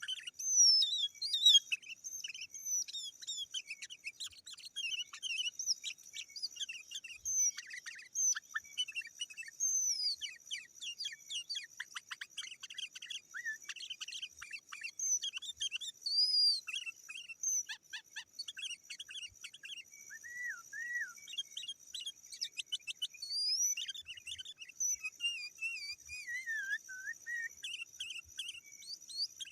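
Sooty-headed bulbul (kutilang) singing vigorously: a dense, unbroken run of quick chirps and short whistled phrases that slide up and down, over a steady high-pitched buzz.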